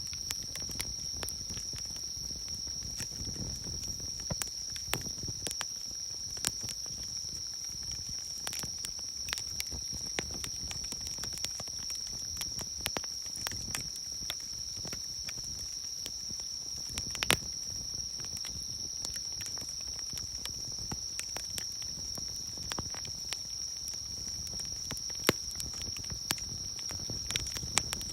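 Wood campfire crackling and popping in irregular sharp snaps, two louder pops standing out, against a steady high-pitched chorus of insects calling in the summer night.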